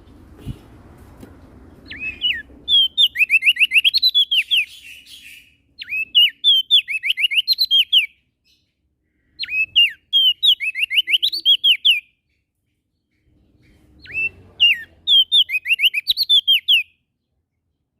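A prenjak daun singing four loud, fast phrases, each a quick run of sharp, high notes that drop in pitch, separated by short pauses.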